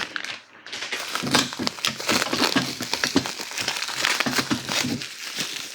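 Packaging being unwrapped and handled, a steady irregular crinkling and rustling with many small crackles.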